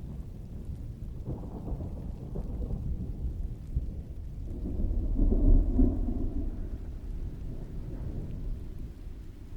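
Distant rolling thunder: a low rumble that swells to a peak about halfway through and slowly fades, under steady rain.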